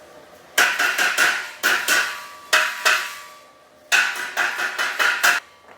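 Hammer striking metal in three quick runs of blows, each with a short ringing tail: a first run of about six, then two, then about seven near the end.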